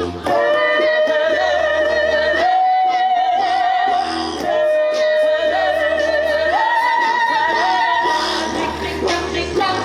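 A cappella choir singing, without instruments. A high female voice holds long notes with vibrato, stepping up in pitch in a repeating phrase, over short repeated low bass notes sung underneath.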